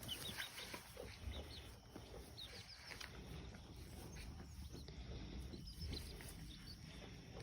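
Faint animal calls: scattered short chirps and clucks over a low background rumble.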